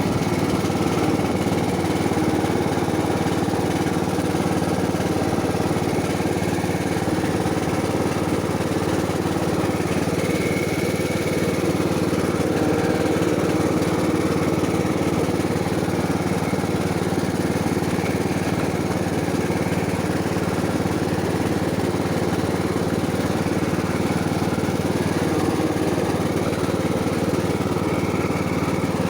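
Ride-on lawn mower engine running steadily throughout.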